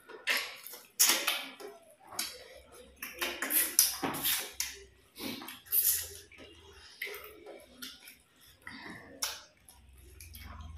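Close-up wet chewing, sucking and smacking of two people eating katla fish heads by hand, in irregular bursts.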